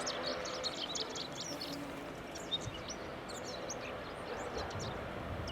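Birds chirping in quick runs of short, high notes, thickest at the start and again around the middle, over a steady low background noise.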